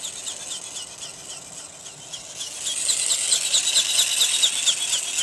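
Small electric motor and gearbox of a radio-controlled flapping-wing model bird (ornithopter) whirring in flight, with a rapid even ticking from the wing-flapping mechanism. It grows louder about two and a half seconds in.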